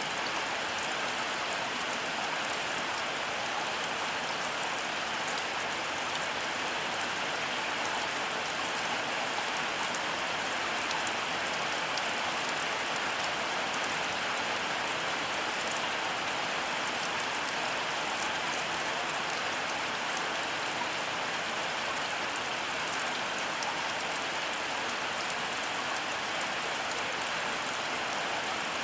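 Heavy rain falling steadily, with a few sharper drop taps standing out here and there.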